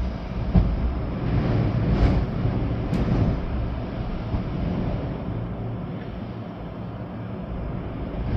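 Storm-force wind gusting, with rain; the gusts swell in the first few seconds and ease off towards the end.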